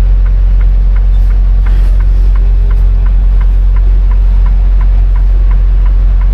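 Semi-truck's diesel engine running low and steady while the rig backs slowly. A light ticking repeats about three times a second over the engine.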